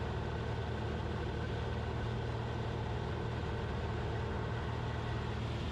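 Steady drone of a Cessna 172RG's Lycoming four-cylinder engine and propeller in level flight, heard inside the cabin, with power reduced to about 20 inches of manifold pressure.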